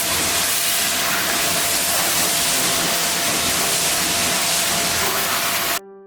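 Pressure washer spraying water against the truck's body, a loud steady hiss over a faint pump hum, cutting off abruptly near the end.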